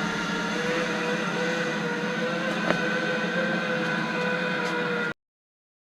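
Zipline trolley pulleys rolling along a steel cable: a steady whine over a rushing hiss that cuts off abruptly about five seconds in.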